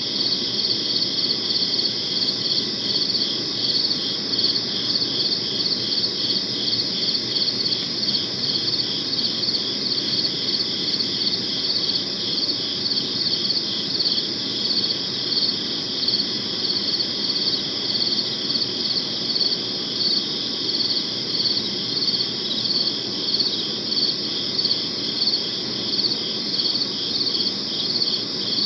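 Crickets chirping in a steady chorus: a continuous high trill with an even, regular pulse, over a soft low background noise.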